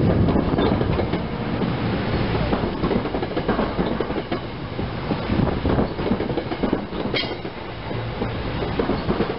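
SEPTA Silverliner electric multiple-unit commuter cars rolling past at close range, their wheels clacking over the rail joints.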